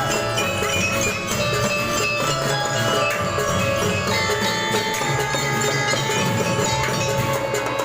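Marching percussion band playing: a melody on bell lyres or similar mallet bells and held tones over a steady beat of drums.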